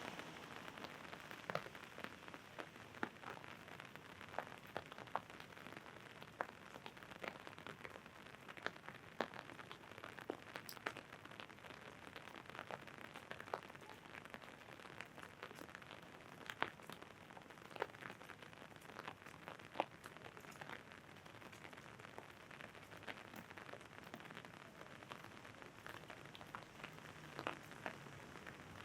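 Steady light rain, with irregular sharp drops pattering on an umbrella overhead and now and then a louder tap.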